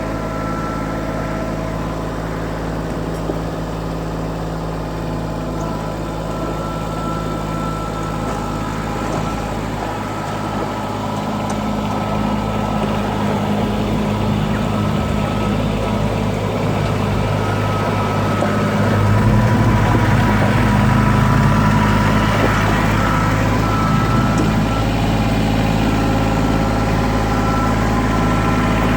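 2010 Kubota L3700SU diesel tractor engine running steadily. It grows louder about a third of the way in and again about two-thirds of the way in, while a thin high whine comes and goes.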